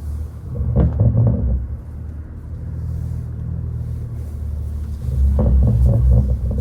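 BMW 540i's B58 turbocharged inline-six with a catless downpipe and straight-piped exhaust, running with a low, steady note while driving. It swells louder twice: briefly about a second in, and again for about a second near the end.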